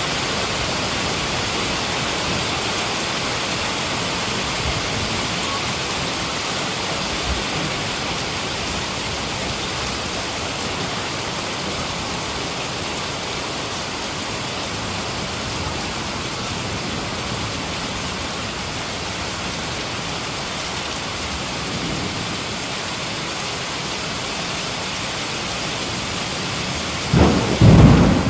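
Heavy rain falling steadily, then a sudden loud clap of thunder about a second before the end, its rumble carrying on.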